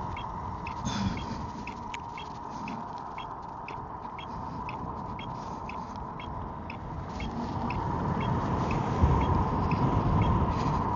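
Emove Roadster electric scooter under way: a steady motor whine over low wind rumble on the microphone that grows louder over the last few seconds. Faint short high chirps repeat about two to three times a second throughout.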